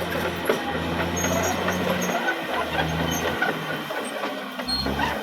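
Caterpillar D6R XL bulldozer's diesel engine running under work load, its note stepping up and down every second or so, with scattered clanks and short high squeaks.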